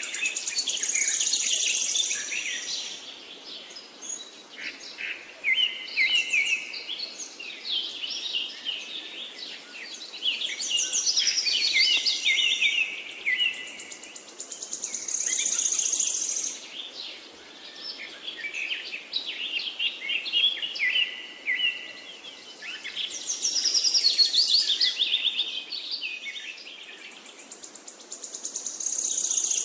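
Birds singing: bursts of quick chirps and fast, high trills that swell again about every four to five seconds.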